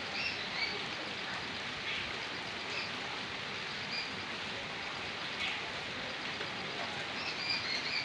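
Steady rain with running water, an even hiss, while birds give short high chirps now and then, a few together near the end.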